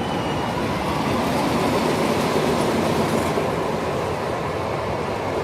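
Steady rolling rumble of wheels running on a rail track, like a train or ride car passing close by.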